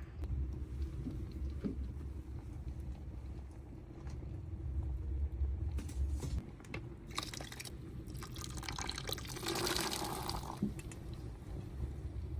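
Water being poured into a container, loudest for a few seconds about eight seconds in, over a steady low rumble, with a few small knocks.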